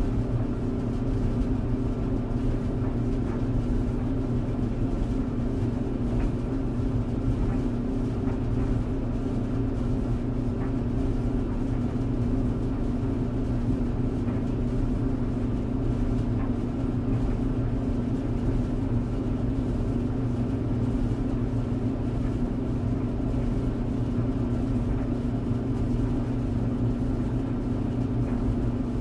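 Tumble clothes dryer running: a steady low hum with several held tones and a light hiss, unchanging throughout.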